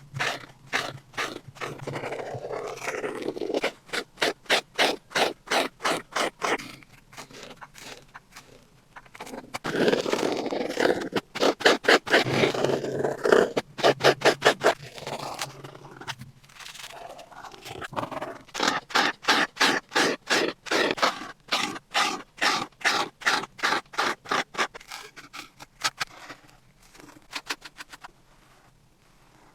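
Art tool scraping back and forth on a painting or colouring surface, in runs of quick strokes at about four a second with short pauses between runs.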